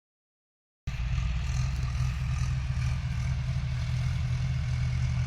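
Mahindra 575 XP tractor's four-cylinder diesel engine running steadily under load while pulling a nine-tine cultivator, a deep, even drone that starts abruptly about a second in.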